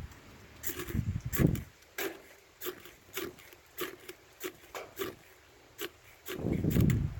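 Feather stick and kindling catching in a small wood stove, crackling with sharp, irregular pops. Twice there is a low, gusty rush, about a second in and again near the end, that fits breath blown onto the flame to get the fire going.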